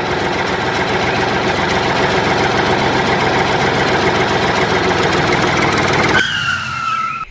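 Vehicle engine running steadily. About six seconds in it drops to a thinner whine that falls slightly in pitch, then cuts off.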